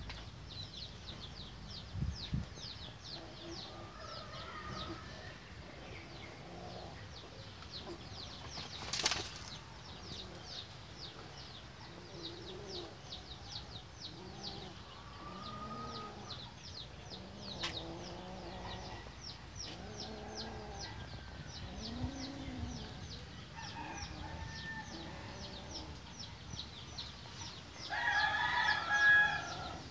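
Birds calling: low clucking calls and a steady run of rapid, short high chirps. A single sharp knock comes about nine seconds in, and a louder call near the end.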